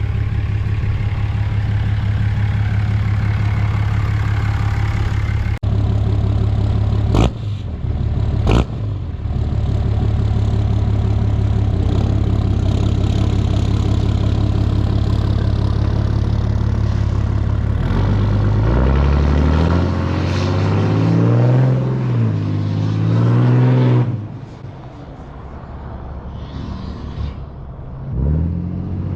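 Cummins diesel pickup engine, emissions equipment removed, idling steadily with two sharp clicks partway through. About two-thirds of the way in, the engine revs up and down in steps as the truck pulls away, drops off, then climbs again near the end.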